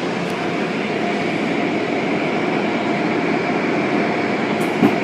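Steady drone of car wash machinery running, with a short thump near the end.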